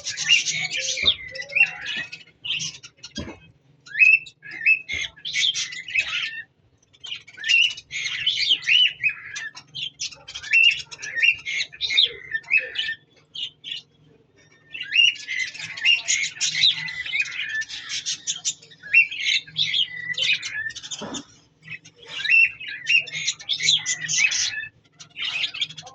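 A flock of budgerigars chirping and chattering, rapid squawky chirps coming in several bouts with brief pauses between them.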